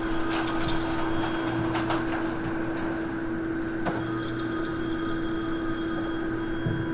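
Telephone ringing. One ring ends about a second in, and a second ring starts about four seconds in and lasts about two and a half seconds, over a steady low hum with a few light knocks.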